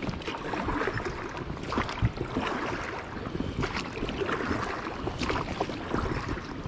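Water splashing and lapping around a small boat, an irregular run of little splashes and crackles.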